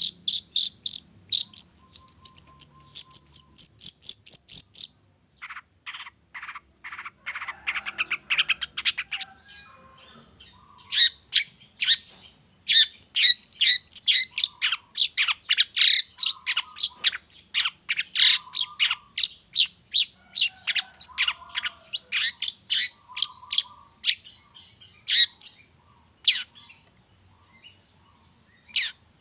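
Long-tailed shrike (cendet) song: rapid series of sharp, high chirps in bursts of several calls a second, with a short pause about five seconds in and a denser run of chattering from about the middle on.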